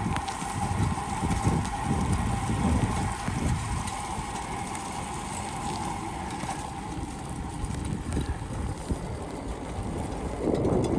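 Riding a bicycle on a wet paved trail: wind buffeting the microphone in gusts over steady tyre and road noise.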